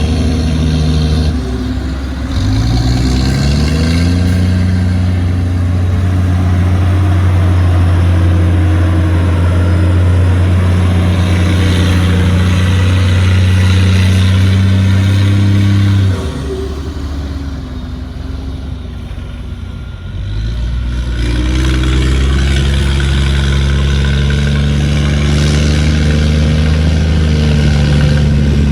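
Heavy diesel engine of a construction machine revving up and running hard and steady, easing off about halfway through, then revving up and running steadily again.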